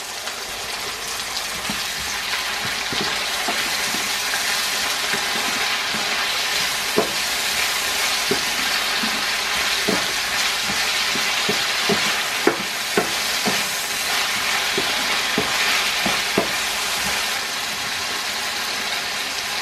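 Sliced onions and yellow bell peppers sizzling steadily in a frying pan with sauce just added. A wooden spoon stirs them, knocking against the pan at irregular moments, and the stirring stops a few seconds before the end while the sizzle goes on.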